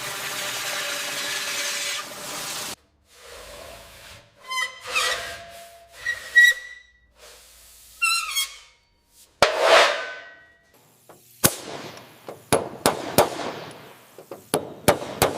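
Edited run of short workshop sounds: a steady hum that cuts off after about three seconds, then brief whistle-like squeals, one falling in pitch, and a string of sharp metallic clicks and knocks.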